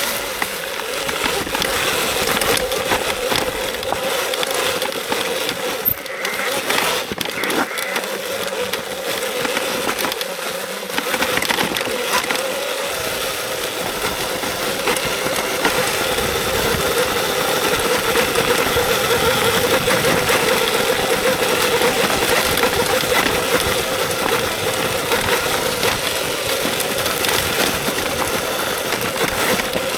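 Electric dirt bike riding a trail: a steady motor whine under a constant rush of tyre and suspension noise, with scattered knocks and rattles from the rough ground.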